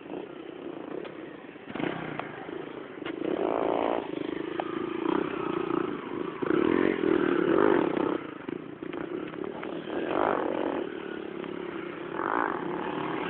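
Motorcycle engine running and being revved several times, the engine note rising and falling, loudest about a third of the way in and again past the middle.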